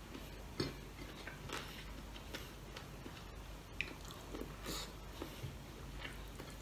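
Close-up eating sounds: a man chewing mouthfuls of pork adobo and rice, with wet mouth smacks and scattered small clicks.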